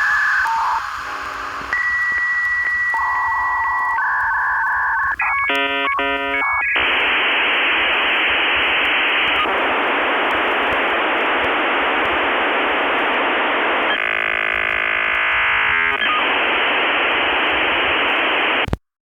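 Telephone-line style electronic sounds: a few steady beeps and tones, a short flurry of dialing-like tones, then a long even hiss like line static, all thin as if heard over a phone line. It cuts off abruptly near the end.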